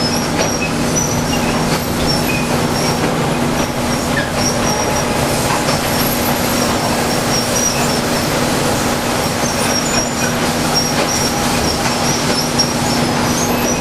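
Sawmill machinery running steadily: a constant mechanical hum and rumble, with a faint high squeal coming and going.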